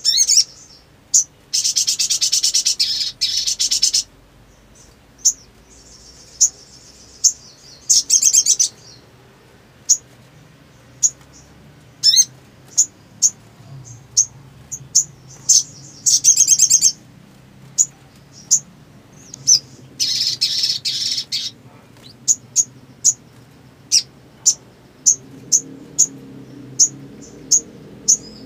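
Sogon (sogok ontong), a sunbird-family songbird, singing: high, sharp chirps repeating about once a second, broken four times by fast rattling trills lasting one to two seconds.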